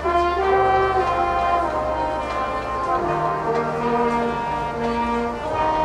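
Elementary school marching band playing, brass instruments holding long sustained notes over a low bass line, the chord changing every second or so.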